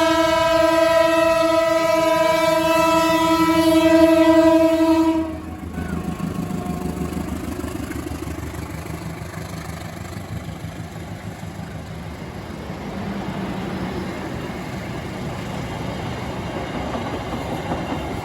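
Diesel locomotive's air horn sounding one long, loud, steady blast that cuts off suddenly about five seconds in, followed by the train running past with a low engine rumble and the clatter of its wheels on the rails.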